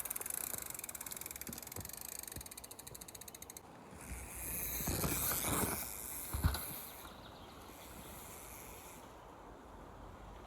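Mountain bike freehub ratchet clicking rapidly while coasting, stopping about three and a half seconds in. Then a louder rush of tyre and air noise with a sharp thump about six and a half seconds in, the bike landing the jump.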